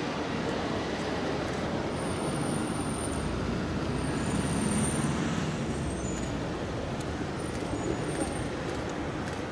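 Steady rumble of vehicles in street traffic, swelling about halfway through as one passes close, with a few brief faint high-pitched squeals.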